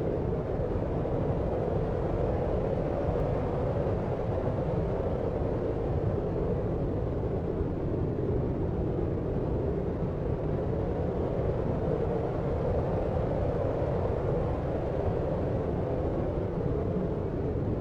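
Steady, deep noise for sleep, weighted to the low end like brown noise, with no changes or separate sounds.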